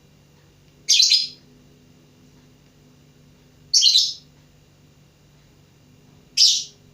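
Lovebird giving three short, loud, high-pitched chirps, spaced about two and a half to three seconds apart.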